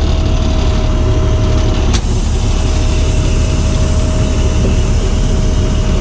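Box truck engine idling, a steady low rumble with a constant whine over it, and a single sharp click about two seconds in.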